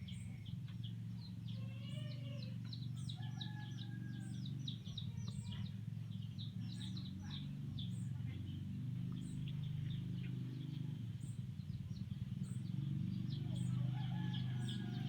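Small birds chirping rapidly and continuously, with a few lower, drawn-out calls, over a steady low hum.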